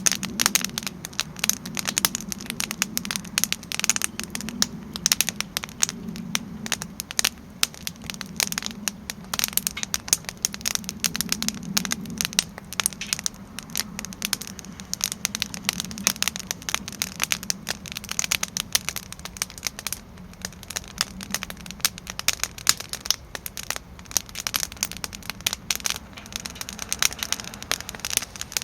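Campfire wood burning in a Solotour fire pit, crackling and popping in a dense, irregular stream of sharp cracks over a low steady rumble.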